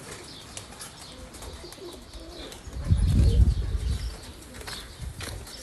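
Pigeons cooing softly, with a louder burst of low rushing noise about three seconds in that lasts over a second.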